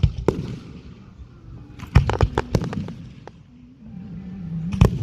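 Aerial fireworks exploding: a bang just after the start, a quick run of several bangs about two seconds in, and another bang near the end.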